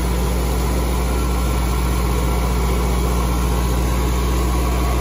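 Honda B16 DOHC inline-four engine idling steadily as it warms up toward operating temperature.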